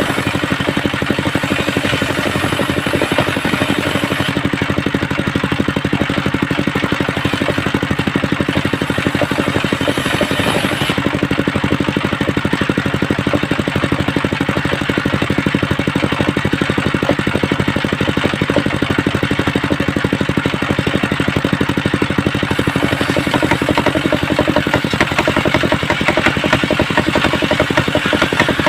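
Engine of a home-built circular saw machine running steadily at an even speed, with a fast regular pulse.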